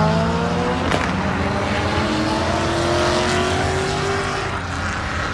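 Car engine revving up, its pitch climbing slowly over a couple of seconds, with a single sharp click about a second in.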